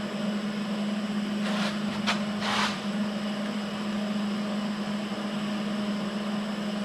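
Steady machine hum with a few faint short scrapes about one and a half to two and a half seconds in, from a greased hand tap being started into a drilled hole.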